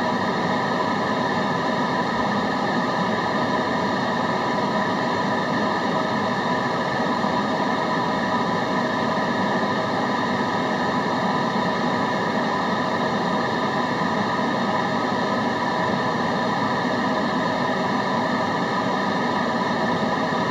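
Steady, unchanging white-noise-style hiss with a faint hum of several steady tones running through it, at a constant level throughout.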